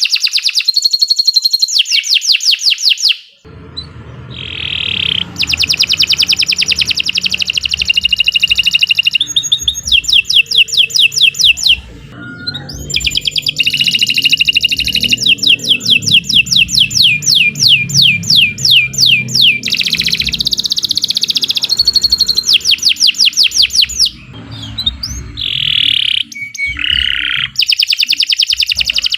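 Domestic canary singing a long, continuous song made of fast trills of rapidly repeated high notes, with only brief breaks.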